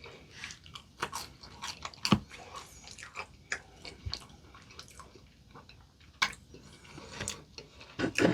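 Close-miked chewing and crunching of potato-crusted fried chicken: irregular crisp crackles, with a few louder bites.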